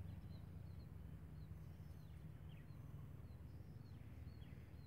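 Near silence outdoors: a bird chirping faintly, short high notes repeated about once or twice a second, over a low steady rumble.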